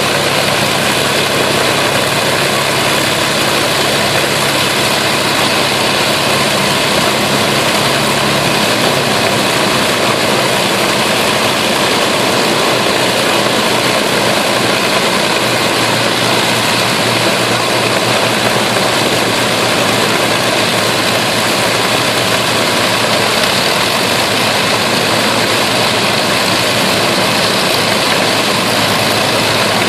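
Avro Lancaster's Merlin V12 piston engines running on the ground: a loud, steady drone whose engine note shifts a couple of times as the engines change speed.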